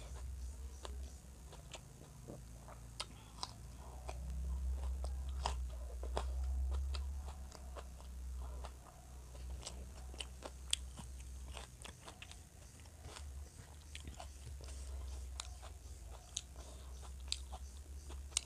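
Close-up eating sounds of rice and chicken curry eaten by hand: chewing with many sharp, wet mouth clicks and smacks scattered throughout. A low hum runs underneath and grows louder between about four and seven seconds in.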